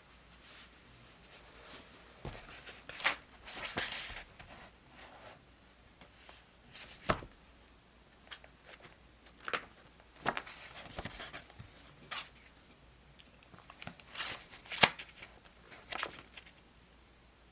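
Paper and stationery being handled on a desk: scattered brief rustles and crinkles with sharp taps and clicks, the loudest near the end.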